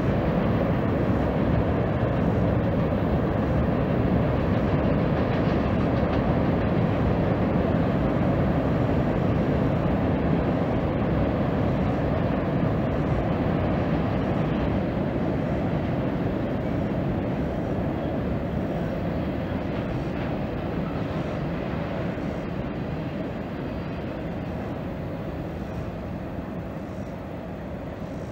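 Freight train cars rolling across a high steel trestle bridge: a steady rumble that slowly fades over the last ten seconds or so as the end of the train passes.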